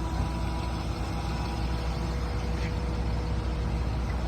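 Tow truck's engine running steadily, a continuous low hum.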